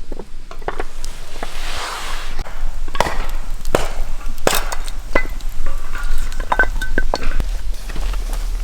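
Camp cookware and utensils handled: a string of sharp clinks and knocks, with a short ringing clink about six to seven seconds in.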